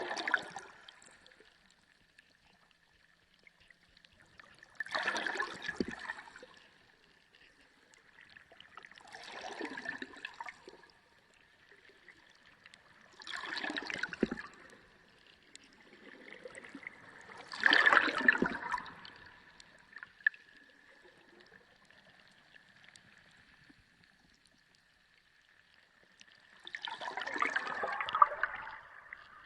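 Sea water heard underwater, surging and gurgling in six swells a few seconds apart, with a faint steady high tone underneath.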